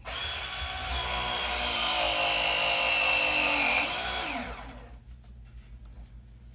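Milwaukee cordless press tool crimping a plumbing fitting. Its motor starts abruptly and runs with a whine that sags slowly in pitch under load, then winds down quickly about four seconds in as the press cycle ends.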